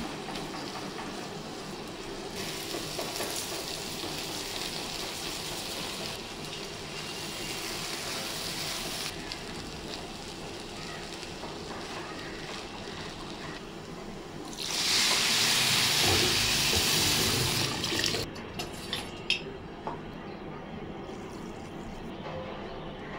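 Lentils, grated carrot and rice frying in a pan with a low sizzle while a silicone spatula stirs them. About 15 s in comes a loud rushing hiss for about three seconds, water being poured into the hot pan, and then a few small clicks.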